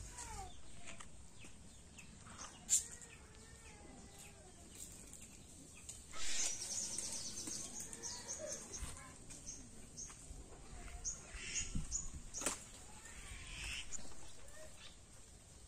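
Small birds chirping and calling in a rural yard, with a quick run of high chirps about six seconds in and more scattered through the rest. Two sharp knocks stand out, one early and one near the end.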